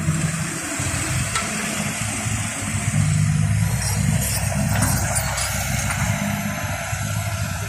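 Heavy diesel machinery engine running steadily, with a few faint clicks about four to five seconds in.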